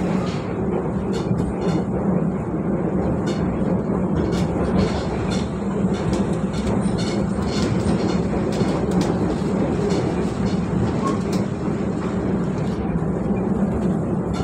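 Harina passenger train running, heard from inside the coach: a steady low rumble and hum, with short irregular clicks and rattles throughout.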